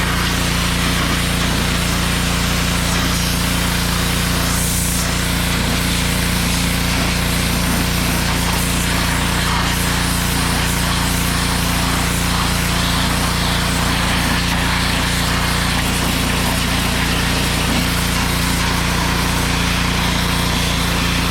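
Pressure washer running steadily, its motor humming under the hiss of the water jet spraying.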